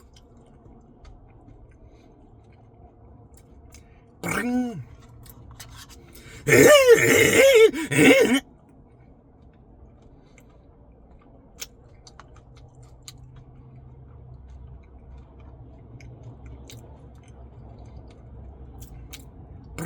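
A man chewing a mouthful of Blizzard ice cream with Reese's Pieces and cookie dough, with small clicks between the chews. He makes loud wordless vocal sounds twice: briefly about four seconds in, and for about two seconds from six seconds in.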